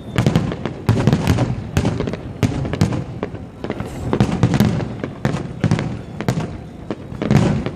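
Aerial firework shells bursting in quick succession: many sharp bangs, several a second, with crackling and rumbling decay between them.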